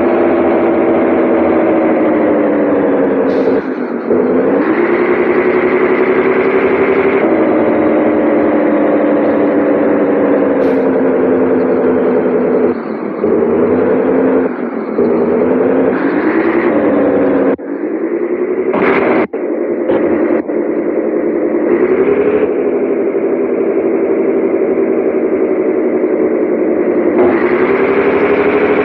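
Scania 113H 360 truck's diesel engine running under load, its pitch slowly sinking and rising. Several brief dips in level are each followed by the pitch climbing again, as at gear changes.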